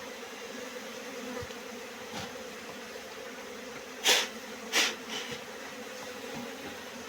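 Honeybees buzzing in a steady hum. Two short, loud hissy bursts a little past the middle, less than a second apart, cut across it.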